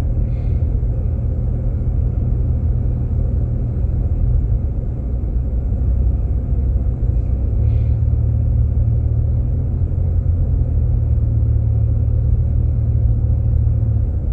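Steady low road and engine rumble inside a Jeep Grand Cherokee's cabin while driving on a snow-covered road.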